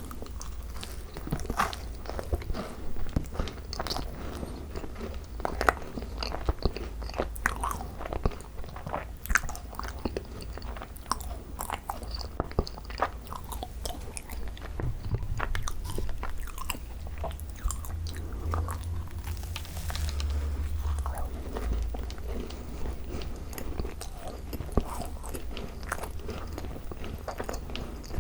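Close-miked chewing and biting of thick-cream Korean macarons (ttungkaron), with many small, irregular crisp clicks from the shells and soft wet mouth sounds.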